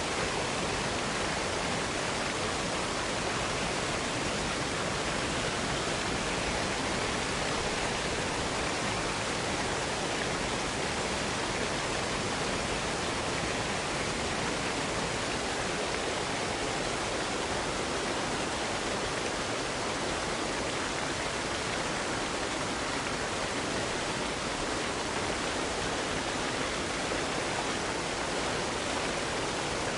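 Water cascading down a waterfall: a steady, even rush with no breaks.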